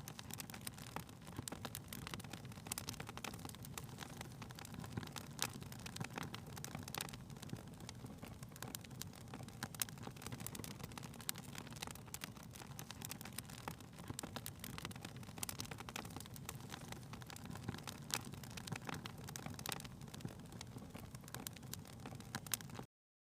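Fire crackling in a fireplace: irregular sharp pops and snaps over a steady low rumble, cutting off abruptly near the end.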